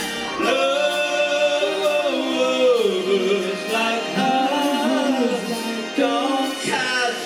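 Live band music with singing, the voices holding and gliding between notes over the instruments.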